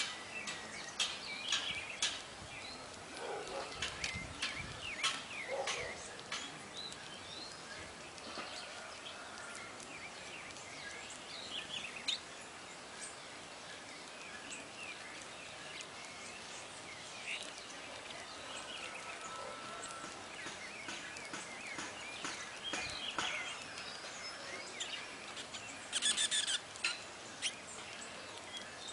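Small songbirds chirping and whistling in short, quick notes over a steady background hiss, with a dense burst of calls near the end.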